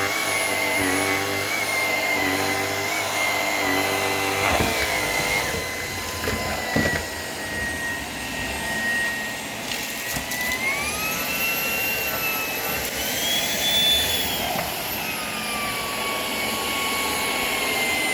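Shark PowerDetect vacuum cleaner running with a steady high whine. A few seconds in it gives a couple of short knocks, and about ten seconds in its pitch rises, peaks and then eases back down.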